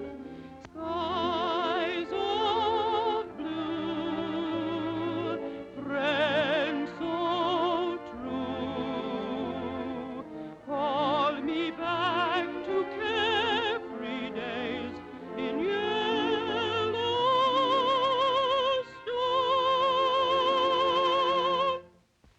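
Operatic solo singing with heavy vibrato over orchestral accompaniment, mostly long held notes, ending on a final sustained note that cuts off near the end.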